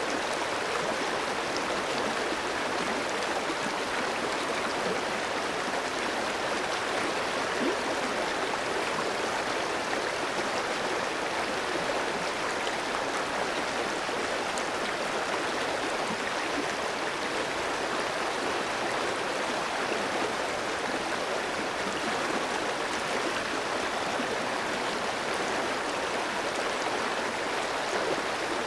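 Clear stream flowing over rocks, a steady rushing and babbling of water with no change.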